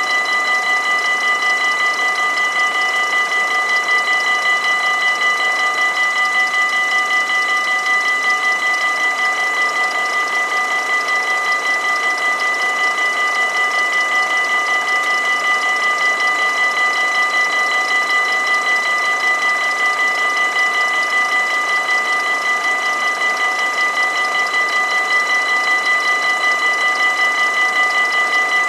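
Warning bells of a Dutch automatic half-barrier level crossing ringing without a break, a fast, even ring that signals a train is approaching.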